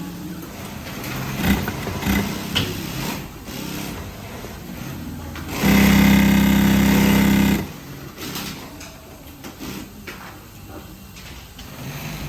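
Industrial 0303D top-and-bottom-feed sewing machine with a direct-drive motor. Scattered clicks and knocks come first. Midway it runs fast for about two seconds as a loud, steady hum, then stops abruptly, and light clicks follow.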